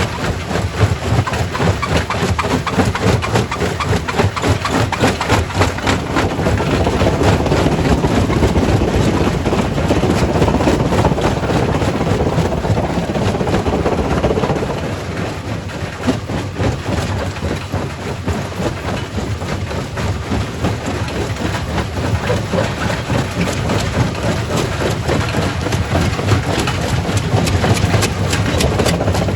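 Quarry primary rock crusher breaking stone: a steady heavy machine drone crowded with irregular knocks and cracks. It grows louder and denser for several seconds in the first half, then eases off a little.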